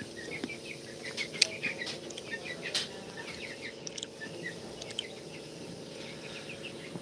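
Small birds chirping in a quick series of short, high notes, with a couple of sharp clicks, over a faint steady low hum.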